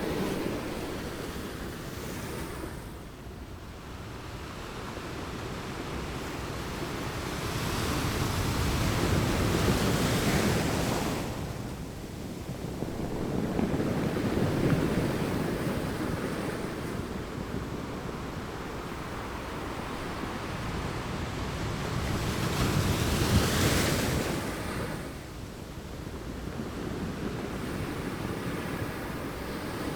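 Ocean waves breaking on a beach: a continuous surf wash that swells and falls back, with three larger waves cresting about a third of the way in, near the middle and a little past two-thirds of the way through. Some wind on the microphone.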